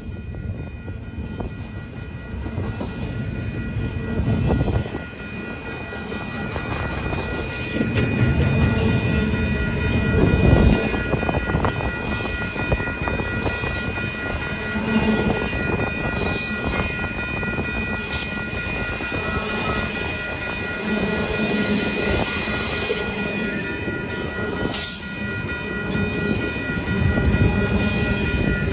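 Double-stack intermodal container train rolling past: a continuous rumble and clatter of steel wheels on rail from the passing well cars, with a few sharp knocks and a thin steady high whine over it.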